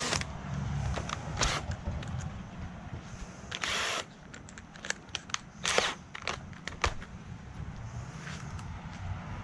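Cordless drill driving a screw into 2x4 boards to pull them tight: a low motor hum with scattered clicks and knocks, and a couple of short hissy bursts.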